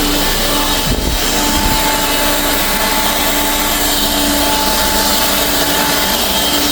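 A handheld blower motor running steadily with an even whine, blowing debris out of an empty semi trailer.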